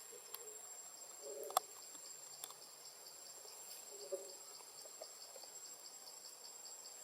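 Insects chirping in a steady rhythm, about four pulses a second, over a constant high-pitched whine. A few faint sharp clicks come through early on.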